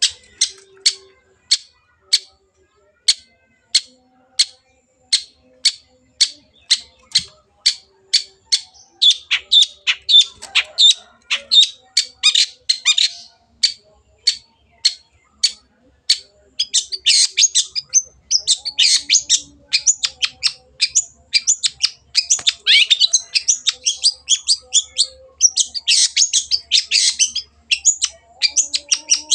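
Long-tailed shrike (cendet) calling: a fast run of sharp repeated notes, about three a second, which about a third of the way in breaks into dense, harsh chattering song that runs almost without pause through the second half.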